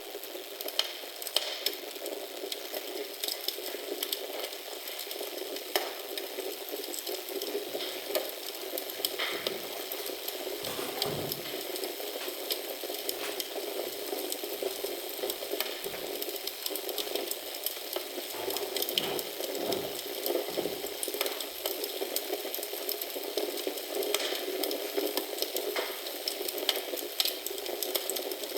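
Wood fire crackling in a fireplace: a steady hiss with frequent sharp pops and snaps, and a few soft low thumps in the middle.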